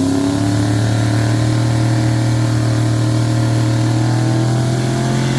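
An engine running steadily at a held speed, its pitch rising briefly at the start and then holding.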